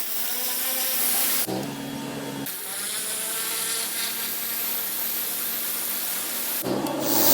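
Pressure washer spraying through a turbo nozzle: a steady hiss of water over the even hum of its engine. The sound changes abruptly a few times.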